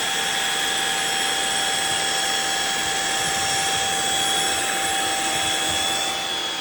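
Riccar R70 wet floor washer running steadily, its suction motor and brush rolls giving a high-pitched whine over a rushing hiss. The topmost whine drops away about six seconds in.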